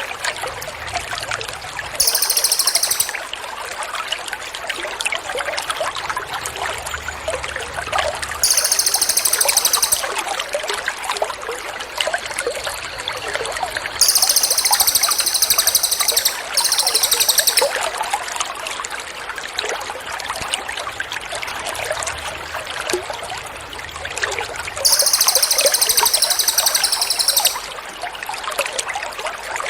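Water trickling steadily, played as a calming background for training songbirds. About five times, a very high, rapid buzzy trill from a recorded songbird cuts in for one to three seconds.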